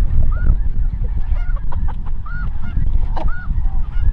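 Snow geese calling: many short, repeated high honks, with a constant low rumble beneath and a sharp click about three seconds in.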